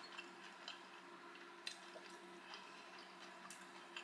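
Near silence: faint, sparse wet clicks of a person chewing food with the mouth closed, a few about a second apart, over a steady low hum.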